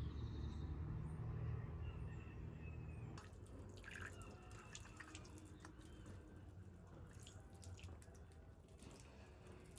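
Water dripping in scattered, irregular drops over a faint low rumble that stops about three seconds in.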